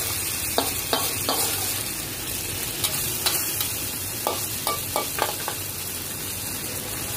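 Lamb pieces with spices and potato sizzling in a pot while being stirred, with a steady frying hiss. A stirring utensil knocks and scrapes against the pot at irregular moments.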